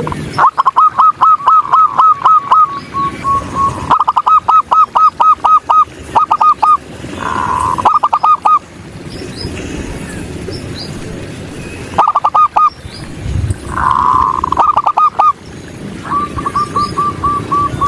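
Zebra dove (perkutut) cooing: several phrases of rapid, clean staccato notes near the same pitch, some ending in a longer held coo.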